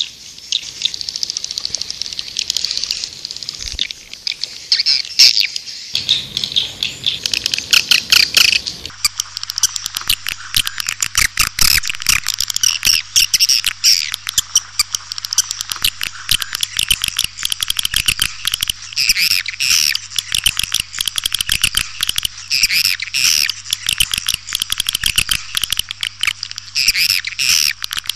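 Swiftlets twittering in a dense, rapid stream of high chirps and clicks, as in a swiftlet calling-sound recording. It gets busier about nine seconds in, with a faint low hum underneath.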